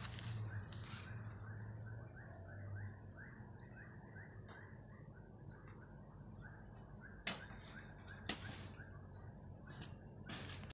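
A bird calling faintly in a quick, steady series of short chirps, several a second, with three sharp knocks in the second half.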